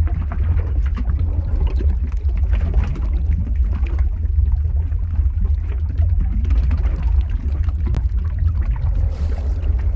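Lava-flow sound effect: a steady deep rumble under a continuous dense crackling, with no let-up.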